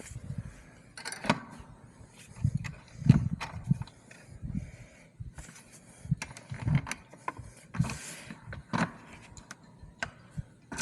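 Irregular clicks and knocks of hand work on fence wire and its tensioning hardware, as the wires are being tightened.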